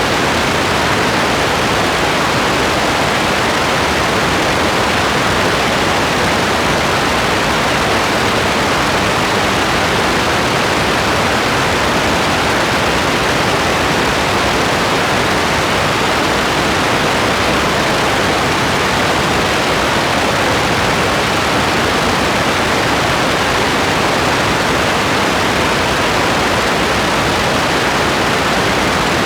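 Steady rain: an even, dense hiss with no separate drops or pattering standing out.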